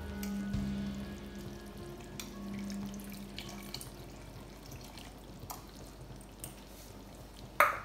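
Soaked tamarind being squeezed by hand into a steel pot of mutton curry, the pulp and liquid trickling and dripping in with small wet clicks. There is a sharp knock near the end.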